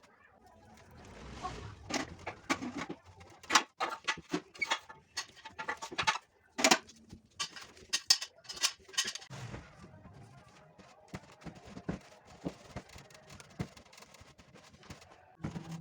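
A run of irregular, sharp clicks and knocks of hard objects for several seconds, then a quieter stretch with a faint low hum and a few scattered ticks.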